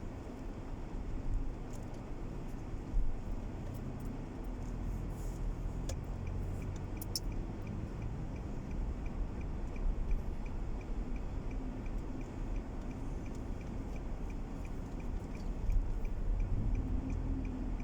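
Low rumble of a car heard inside the cabin, with a turn-signal indicator ticking evenly, about three ticks a second, from about six seconds in until just before the end.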